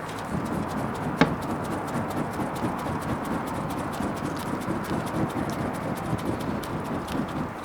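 Wood bonfire crackling, with many small sharp pops over an irregular low rumble of burning and one loud snap about a second in.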